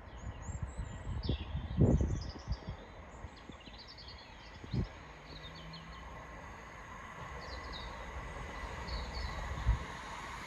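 Birds chirping and singing over a low outdoor rumble, with a few short low thumps, the strongest about two seconds in. An approaching train's rumble slowly builds toward the end.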